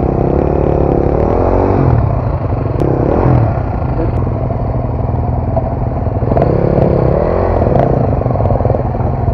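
Dual-sport motorcycle engine running under way, its revs rising and falling twice, with a few sharp knocks in between.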